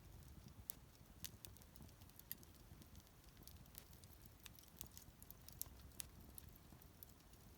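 Bonfire crackling faintly: irregular sharp snaps and pops from the burning wood over a low rumble.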